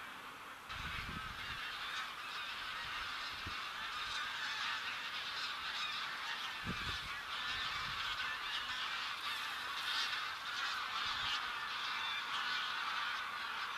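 A large flock of geese calling continuously, many overlapping honks running together into a dense chatter.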